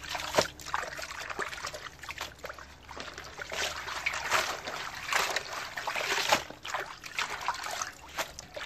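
Water trickling and splashing irregularly as lettuce leaves are washed by hand.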